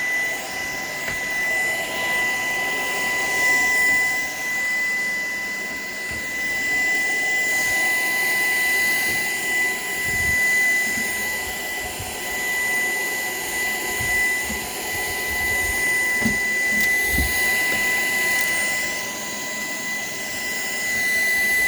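Shark PowerDetect vacuum cleaner running, a steady high motor whine over the rush of suction air. Its loudness swells and eases, with a few low knocks now and then.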